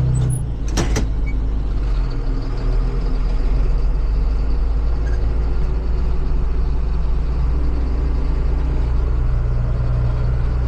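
Farm tractor engine running steadily at road speed, about 10 miles an hour, with a couple of sharp knocks within the first second.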